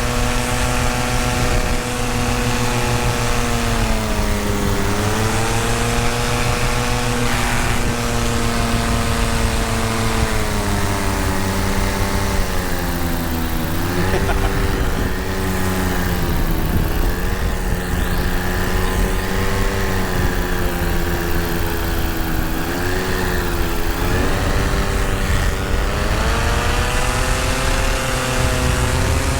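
Tandem paramotor engine and propeller running under power in flight. The engine note dips and comes back up several times as the throttle is eased and reopened.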